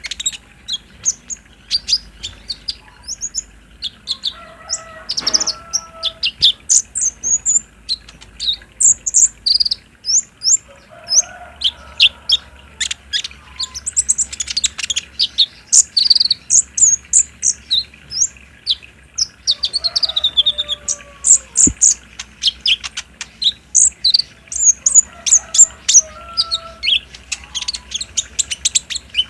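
Brown-throated sunbird (kolibri ninja) singing in the rapid 'trotol' style: a long run of sharp, high chirps and short trills in quick succession, with fainter, lower call notes now and then.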